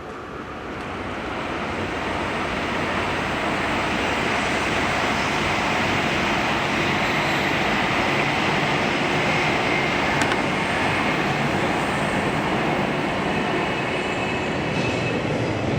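C57 1 steam locomotive making a steady rushing noise that builds over the first two seconds and then holds.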